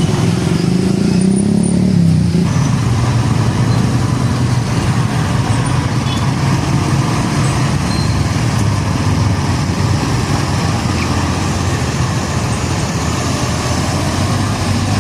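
Heavy diesel trucks in busy road traffic, their engines droning loudly. An engine's pitch rises and falls in the first couple of seconds, then the sound settles into a steady traffic rumble.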